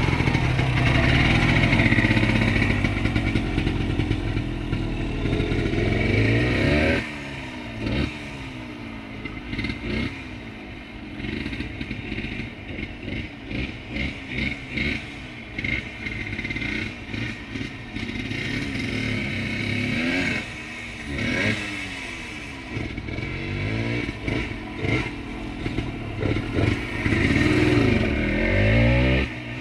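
1978 Yamaha DT100's single-cylinder two-stroke engine, ridden under load: it runs hard for the first several seconds, drops off suddenly about seven seconds in, then revs rise and fall in short throttle blips before it pulls hard again near the end.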